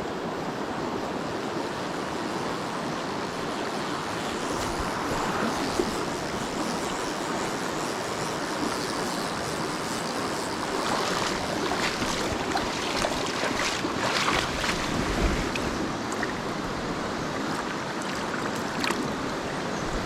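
Steady rushing water of a mountain stream, with a few light clicks and knocks about halfway through.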